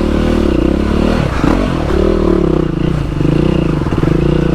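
Yamaha WR450 single-cylinder dirt bike engine running loudly, its pitch rising and falling again and again as the throttle is worked on a slow, rocky, slippery trail.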